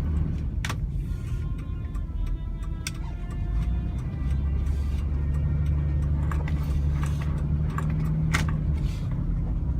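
Pickup truck being driven, heard from inside the cab: a steady low engine and road rumble that grows louder about four and a half seconds in, with a couple of sharp clicks.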